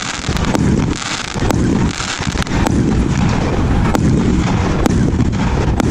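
A 1.3G firework cake with 30 mm tubes firing a dense, continuous barrage: a heavy low rumble of shot bursts laced with many sharp cracks.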